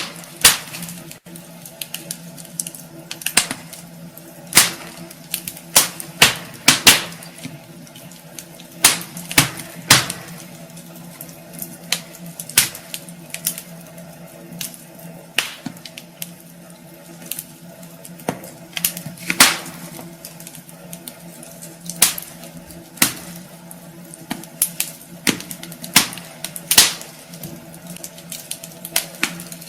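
Wood fire burning in a fireplace, logs crackling with irregular sharp pops, a few much louder than the rest, over a faint steady hum.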